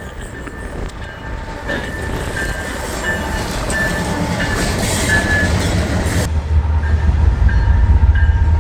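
A train passing, its rumble growing louder, with short high rings repeating about twice a second; about six seconds in the hiss cuts off and a deeper, steadier rumble carries on.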